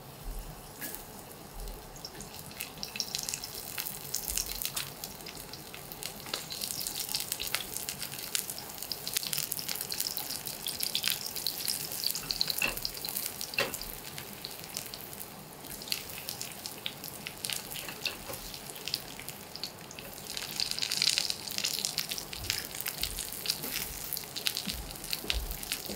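Eggplant slices sizzling and crackling in hot olive oil in a frying pan over high heat, the sizzle thickening as more slices are laid in, with a few light clicks of slices being set down.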